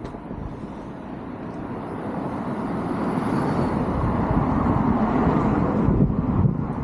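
A passing road vehicle: a steady rush of engine and tyre noise that builds gradually for about five seconds, then falls away quickly near the end.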